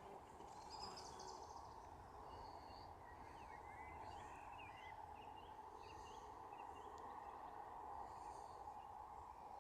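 Faint bird calls and chirps over a steady background hiss, a few short notes every second or so.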